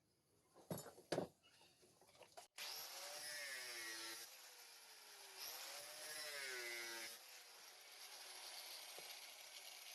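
Two knocks, then a power tool running with a noisy hiss and a whine whose pitch rises and falls twice.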